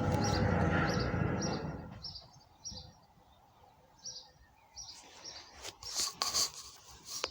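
A small bird chirping outside, a short high chirp repeated about twice a second, while a louder dense sound fades out over the first two seconds. A few light knocks and rustles come near the end.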